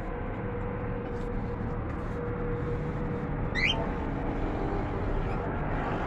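A single short cage-bird chirp sweeping quickly upward, about three and a half seconds in, over a steady low rumble of background noise.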